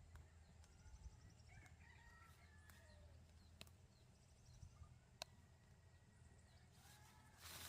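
Faint chicken calls under a quiet rural background, with a few sharp clicks and a brief rustle of noise near the end.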